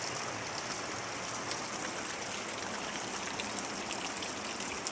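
Steady hiss of rainwater, with many small scattered drop ticks.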